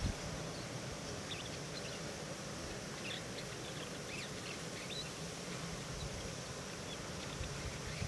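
Steady outdoor background hiss with a few faint, short, high-pitched bird chirps in the distance, clustered around the middle.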